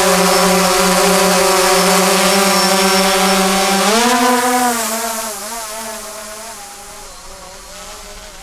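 DJI Phantom 3 quadcopter's propellers and motors buzzing steadily at one pitch while it hovers close by; about four seconds in the pitch rises and wavers as the motors change speed, and the buzz fades as the drone moves away.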